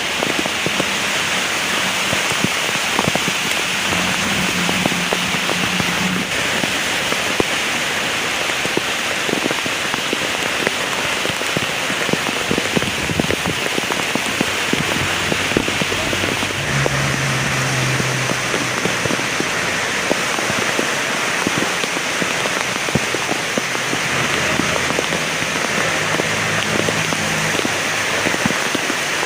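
Heavy rain falling steadily, a dense hiss with many individual drops splattering on a surface.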